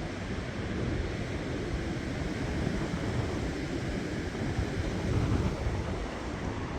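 Strong storm wind blowing in gusts and buffeting the microphone, with a steady rushing that swells into a stronger gust about five seconds in.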